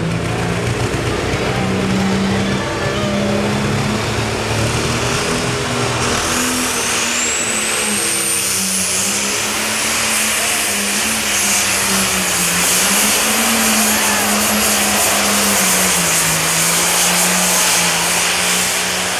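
Super stock pulling tractor's turbocharged engine running loud at high revs, its pitch wavering up and down, with a high turbocharger whine that climbs steeply about six seconds in and then holds.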